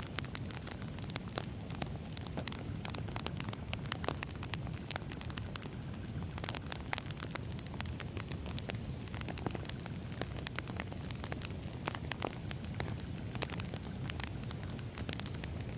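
Wood fire burning, with a steady low rumble and frequent sharp, irregular crackles and pops of firewood.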